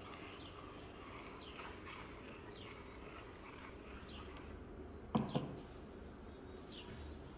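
Small birds chirping in short, falling notes over a quiet outdoor background, with a sharp double knock about five seconds in.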